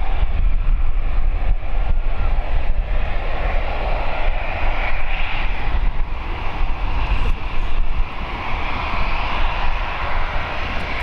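Jet engine noise from a Boeing 737-800's two CFM56-7B turbofans on departure: a steady, heavy rumble with a broad hiss above it, dropping slightly in level about eight seconds in.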